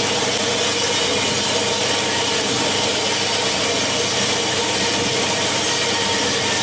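Industrial plastic bottle recycling and washing line machinery running steadily: a loud, even, unchanging mechanical noise with a faint steady hum.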